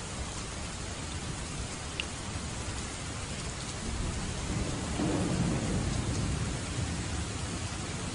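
Steady heavy rain, with a low roll of thunder swelling about halfway through and fading again near the end.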